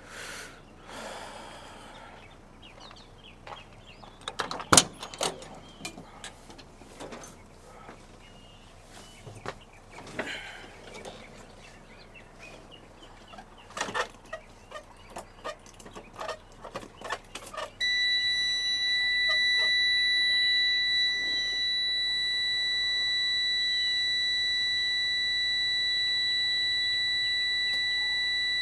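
Scattered clicks and knocks, one sharp knock about five seconds in, then a truck cab's warning buzzer sounds suddenly and holds one steady high tone.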